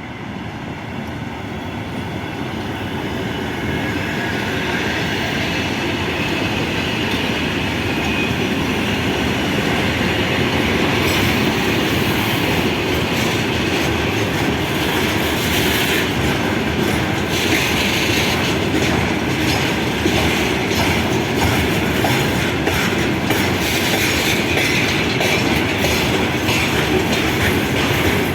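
Train running past on the rails, its wheels clacking over the rail joints. It grows louder over the first several seconds as it approaches, then stays loud and steady.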